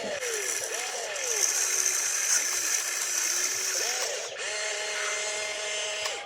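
Small electric motors and gearboxes of an RC construction model running, their whine rising and falling in pitch as the motors start, change speed and stop, over a steady high gear hiss.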